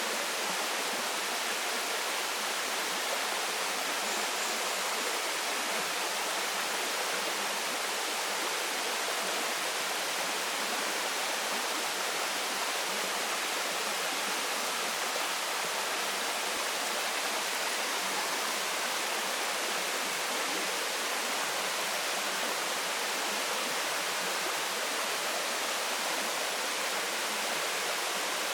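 Waterfall: a steady, unbroken rush of falling water with a hissing, high-weighted character.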